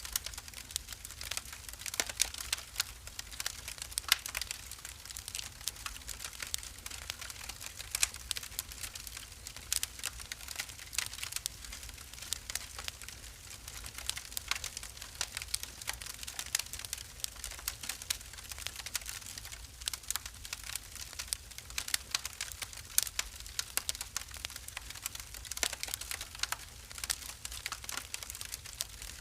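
Wood fire burning in a fireplace, crackling and popping with many sharp, irregular snaps over a faint low rumble.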